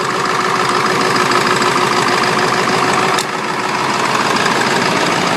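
Ford 7.3 Power Stroke V8 turbo-diesel idling with a steady diesel clatter, still cold shortly after a cold start. A single sharp click comes about three seconds in.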